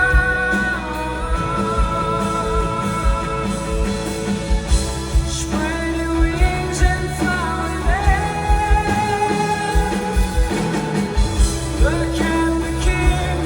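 Live rock band playing with sung vocals: drawn-out sung notes over guitar, bass and a steady drum beat.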